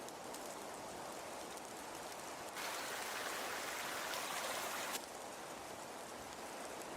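A steady hiss like falling rain, with faint fine ticking. For about two seconds in the middle it turns brighter and louder, cutting in and out abruptly.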